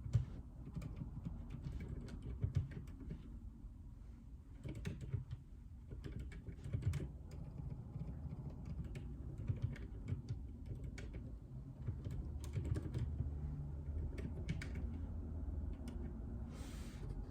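Typing on a JJK84 mechanical keyboard with Outemu Silent Peach linear switches: irregular runs of muffled keystrokes with short pauses between them. A brief hiss of noise comes near the end.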